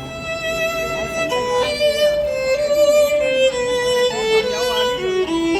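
Violin playing a slow melody in long held notes, stepping down to lower notes near the end.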